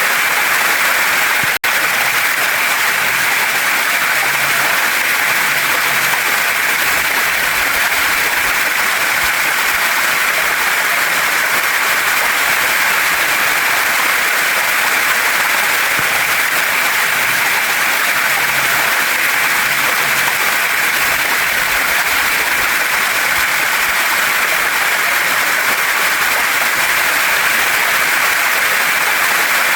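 Waterfall and mountain stream water running steadily, a dense, even hiss. The sound drops out for an instant about a second and a half in.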